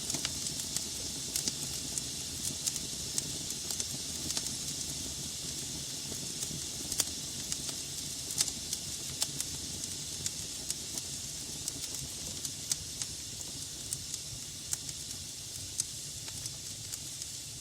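Wood logs burning in a fireplace: a steady hiss and low rumble of flames with frequent, irregular sharp crackles and pops.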